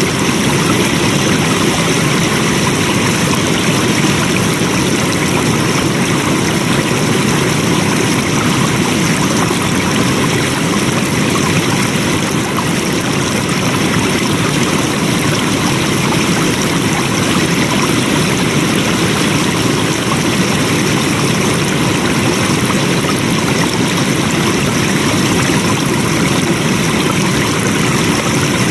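Flowing stream water, a steady even rush with no let-up.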